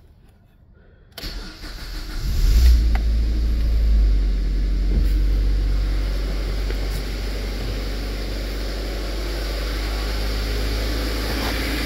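2002 Mazda Protege's 2.0-litre four-cylinder engine on a cold start. After about a second of quiet the starter cranks briefly and the engine catches. It flares up in revs and then settles into a steady idle.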